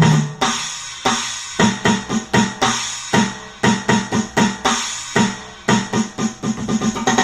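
Electronic drum-kit sounds from a Roland SPD-30 Octapad played as a fast, steady beat: kick, snare and hi-hat/cymbal hits struck in quick succession.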